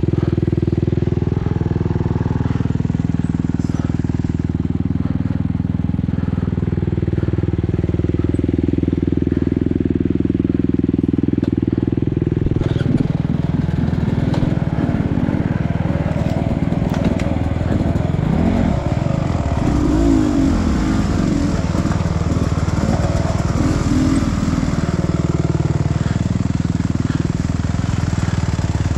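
Dirt bike engine being ridden, its pitch rising and falling as the throttle opens and closes. From about halfway the sound turns rougher and more broken, with scattered knocks and clatter.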